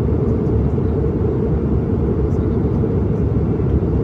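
Steady low rumble of an airliner cabin in flight: engine and airflow noise heard from a passenger seat.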